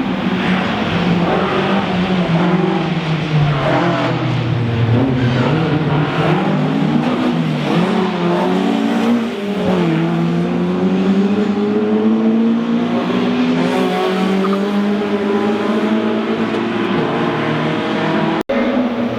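Rally car engine driven hard, its pitch climbing and falling again and again through gear changes and throttle lifts. There is a brief break near the end.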